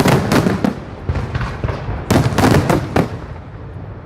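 Fireworks bursting in two rapid volleys of sharp bangs, one at the start and one about two seconds in, each trailing off in echo.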